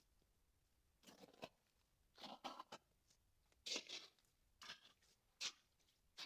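Footsteps crunching in deep snow: about half a dozen irregular crunches, faint overall.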